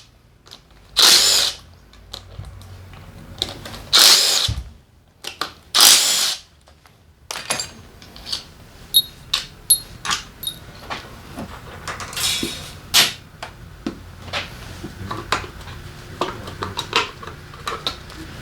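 A power driver with an 8 mm socket runs in four short bursts, spinning out 8 mm bolts. Between and after the bursts come many light metallic clinks of bolts and tools being handled and set down.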